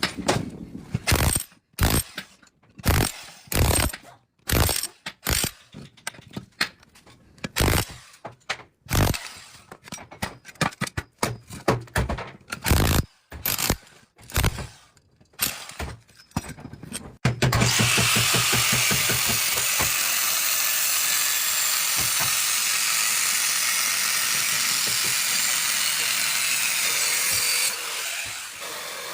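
Sharp metal knocks, roughly one or two a second, as an electric motor is broken apart for its copper windings. Then, about halfway through, a power tool starts and runs steadily for about ten seconds before stopping.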